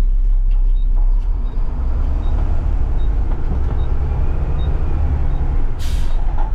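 Garbage truck's diesel engine running with a steady low rumble. Near the end comes a short burst of air hiss, typical of the air brakes.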